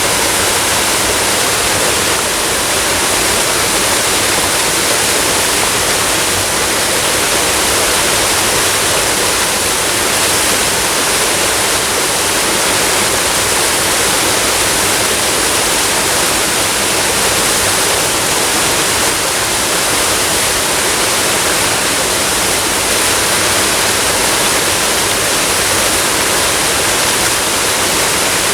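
Waterfall and flowing water rushing steadily, a constant even roar with no breaks.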